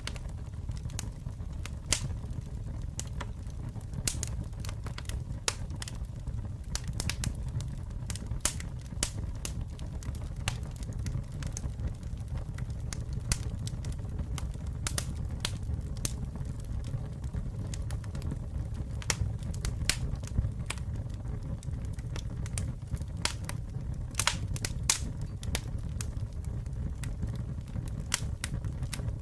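Campfire burning with a steady low rumble and irregular sharp crackles and pops, several a second at times.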